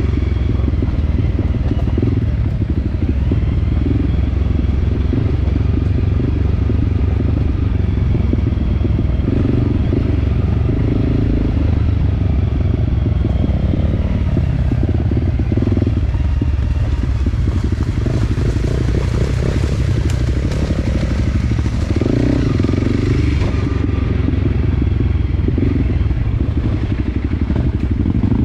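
Enduro dirt bike engine running under way on a trail, its note shifting up and down continuously, with some clatter.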